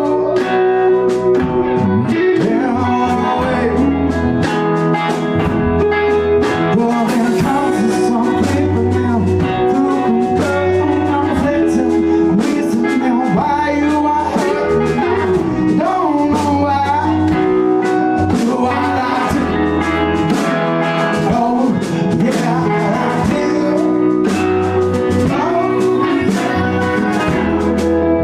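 A blues-rock band playing live: electric guitar, bass and drums, with a singer's voice over them.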